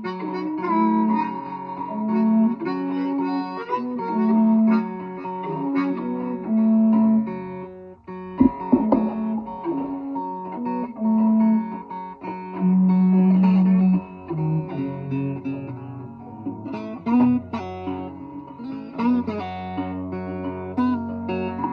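Blues jam of guitar with a low wind instrument holding long notes. The music dips briefly about eight seconds in, then picks up with a very low held drone underneath.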